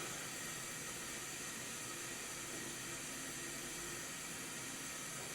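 2006 GE Profile top-loading washer taking in rinse-fill water: a steady hiss of water spraying in through the bleach dispenser.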